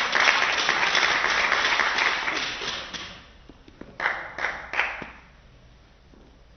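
Crowd in a hall applauding, the clapping fading away over about three seconds. Then three sharp taps about half a second apart.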